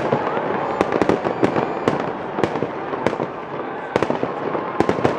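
Aerial fireworks display, shells bursting overhead in sharp bangs at irregular intervals, several coming close together near the end, over a steady crackling wash.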